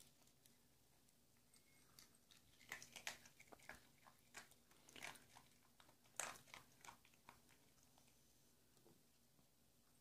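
A dog chewing dry kibble: faint, irregular crunches in short clusters through the middle, stopping a couple of seconds before the end.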